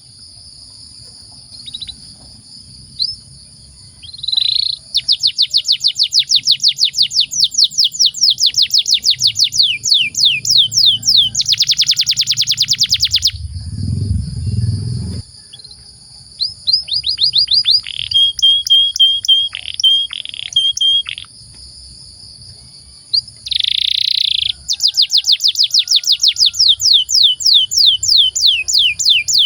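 Canary singing long rolling phrases of fast, rapidly repeated downward-sliding notes, broken by short pauses and a stretch of short level chirps past the middle. A dull low thump sounds about halfway.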